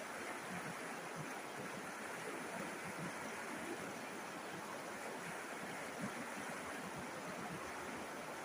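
A river flowing: a steady rush of water with a fine, irregular babble.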